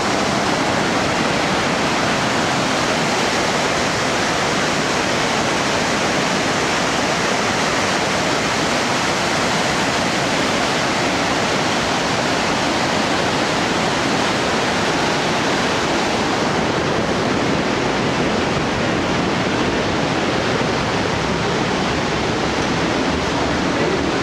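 The Rhine Falls, a large waterfall, thundering: a loud, steady rush of falling water.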